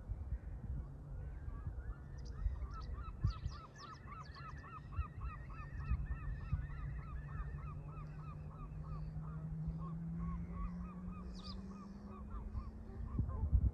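Canada geese honking in a long rapid series, about two to three honks a second, thinning out near the end.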